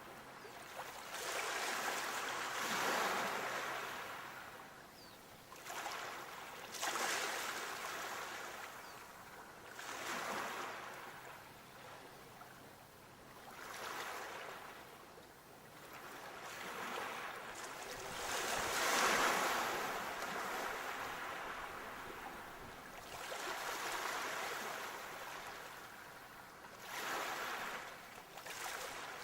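Sea waves breaking on the shore, each surge of surf swelling and washing back, about seven in all, the loudest roughly two-thirds of the way through.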